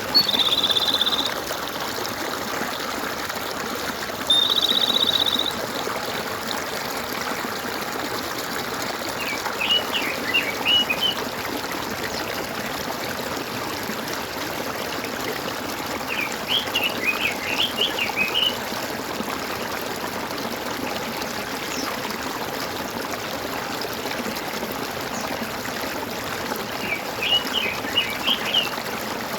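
Water trickling and gurgling steadily in a stream, with birds calling over it: two short buzzy trills near the start and about four seconds in, then three bursts of quick chirps around ten, seventeen and twenty-seven seconds in.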